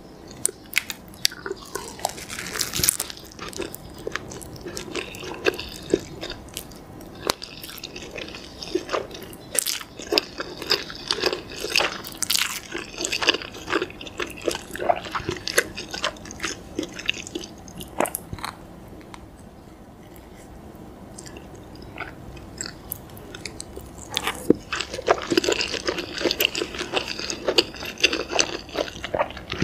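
Close-miked eating: biting and chewing rice-paper-wrapped Samyang instant noodles in sauce, with many wet, clicking mouth sounds. There is a quieter stretch about twenty seconds in before the chewing picks up again.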